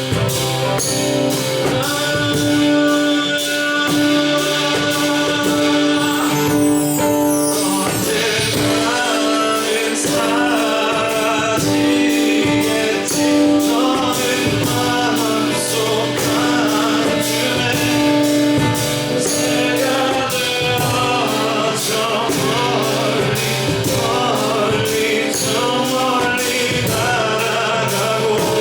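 Live acoustic ballad music with no lyrics: guitar and held notes with percussion keeping an even beat, and a wavering melody, perhaps wordless voice, coming in about eight seconds in. About six seconds in, a high shimmer sweeps downward in pitch.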